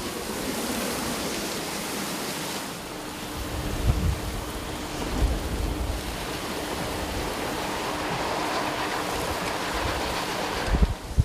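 Hurricane wind and heavy rain as one steady rush of noise, with gusts thumping on the microphone now and then.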